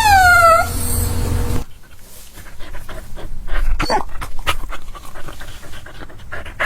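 A puppy crying: one falling whine right at the start, then rapid panting breaths with a couple of brief whimpers partway through.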